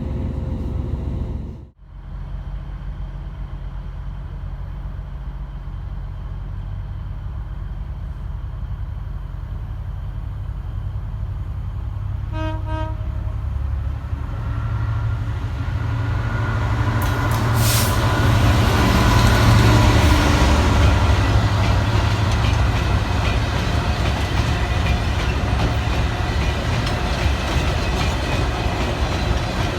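Diesel locomotive hauling an engineers' train approaching and passing, its low engine rumble building to the loudest point about twenty seconds in, with the wagons running by after. A short horn note sounds about twelve seconds in.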